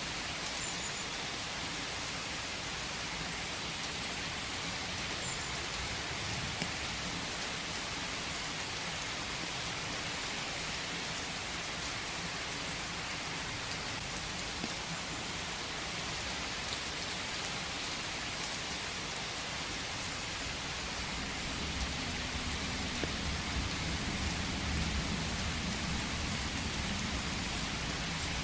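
Steady rain falling in a forest, an even hiss with scattered drop ticks. A low rumble swells in near the end.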